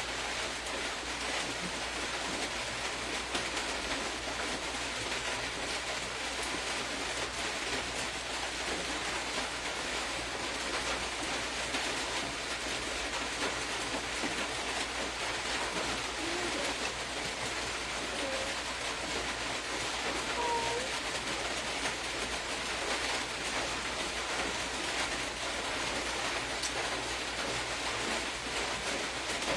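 Steady, even hiss of background noise with no speech, and a few faint brief tones in the middle.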